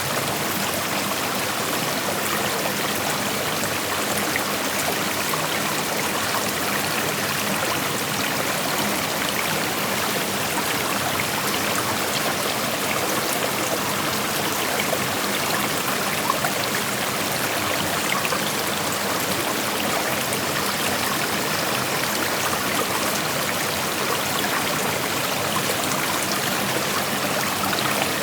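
Creek water flowing over rocks, a steady rushing and trickling.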